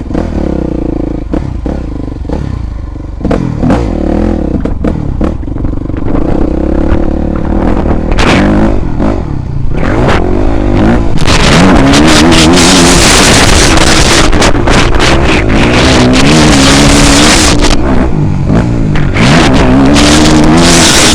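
400cc motocross bike engine revving and pulling away, its pitch rising and falling with the throttle. About ten seconds in it gets much louder and stays loud as the bike is ridden hard.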